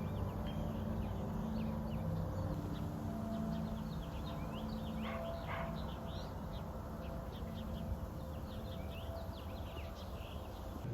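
Many small birds chirping and calling in quick, overlapping short notes, over a steady low background noise.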